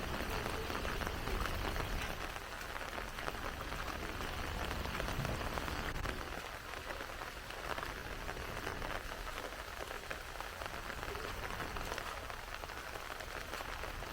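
Heavy rain falling steadily: a dense, even patter of drops hitting surfaces, with a low rumble underneath.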